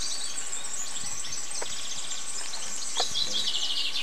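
Songbirds chirping and singing in the trees, with a rapid trill starting about three seconds in, over a steady outdoor hiss. A couple of faint knocks sound at about one and a half and three seconds.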